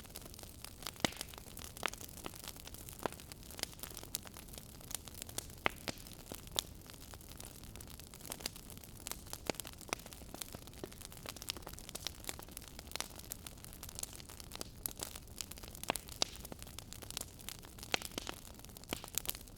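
Wood fire in a fireplace crackling: irregular sharp pops and snaps, several a second, over a soft steady hiss and low rumble of burning.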